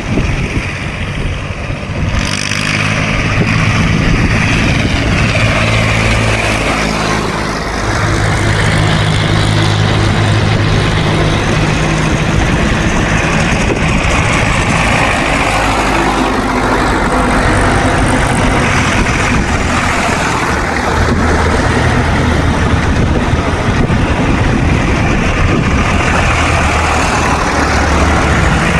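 Tractor engines running as a run of tractors drives past one after another, the engine note shifting every few seconds as different machines come by.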